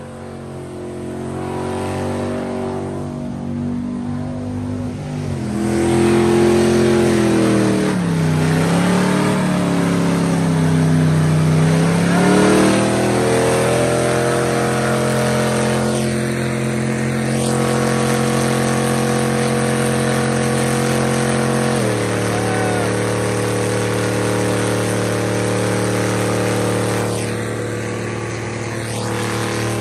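A car's engine and exhaust running steadily, louder after a few seconds. Its pitch sags and climbs back up, holds level, then steps down a notch about two-thirds of the way in.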